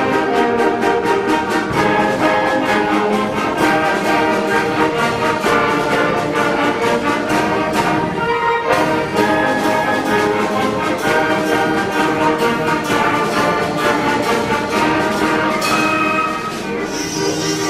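School concert band playing, with brass prominent over a steady beat; the sound thins briefly near the end.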